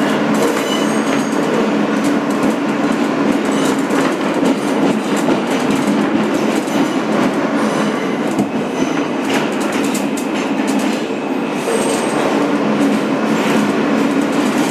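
Inside a 2008 Kawasaki R160B subway car running between stations: a steady, loud rumble of steel wheels on rail, with repeated clicking over the track joints.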